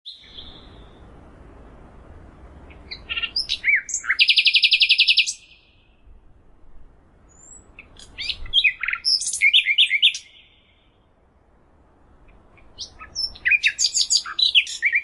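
A small songbird singing three phrases about two seconds long, a few seconds apart. Each phrase is a run of quick, varied chirps and whistles, and the first ends in a rapid, even trill.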